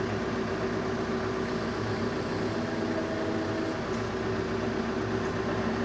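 Engines of the tractor and hydraulic sawmill running steadily, a constant even hum with a steady low note.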